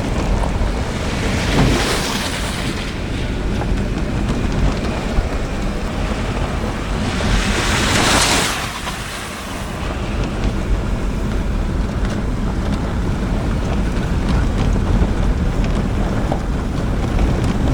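Wind buffeting the microphone in a steady low rumble, with two stronger gusts of rushing hiss about two seconds and eight seconds in.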